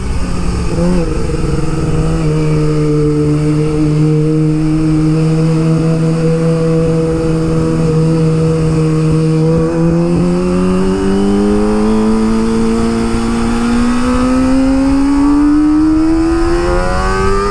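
Kawasaki ZX-25R's 249 cc inline-four running through an Akrapovic exhaust while riding. It holds steady revs for about ten seconds, then its pitch rises smoothly as the bike accelerates.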